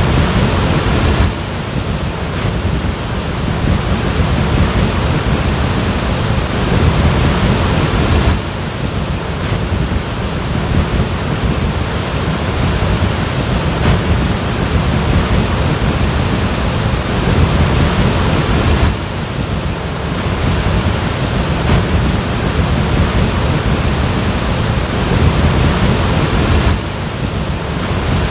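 Floodwater rushing: a dense, steady wash of water noise, heaviest in the low end, shifting abruptly in level and tone a few times.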